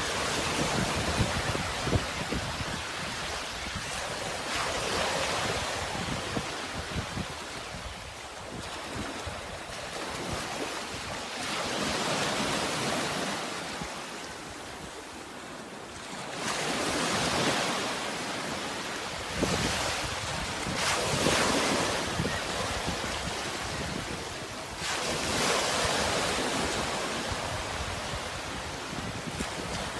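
Sea waves breaking and washing in, swelling and fading every four or five seconds, with a low rumble of wind on the microphone.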